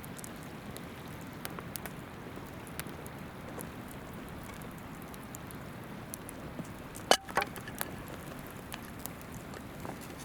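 Wood campfire crackling, with scattered sharp pops and one loud snap about seven seconds in, over the steady rush of a flowing river.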